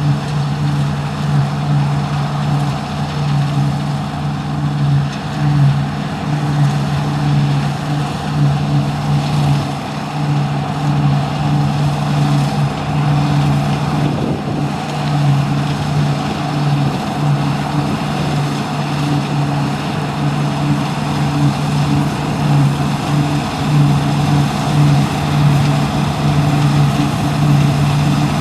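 Deutz-Fahr Topliner 4090 HTS combine harvester running steadily at work, a loud continuous machine drone with a strong low hum.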